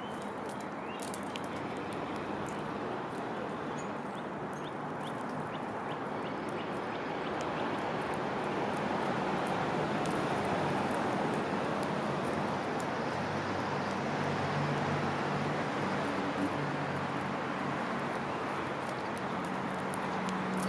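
Steady rushing outdoor background noise with a few faint, short sparrow chirps in the first few seconds; a low hum rises in the middle and again near the end.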